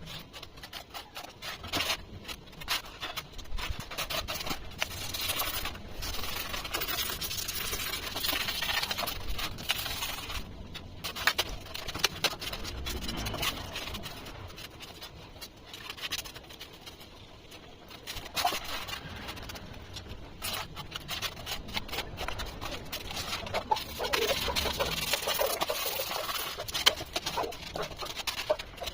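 Polystyrene foam (thermocol) being worked by hand: irregular scraping and scratching, broken by many short clicks.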